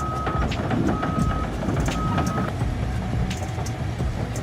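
Caterpillar D11R bulldozer's diesel engine running under load, with clanking from the tracks. A reversing alarm beeps three times in the first half, then stops.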